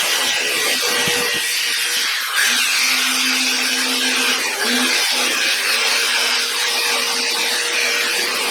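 Electric drill spinning a wire wheel against rusty steel: a steady motor whine under a harsh scratching hiss. The whine dips out briefly about a second in and again near five seconds as the load changes.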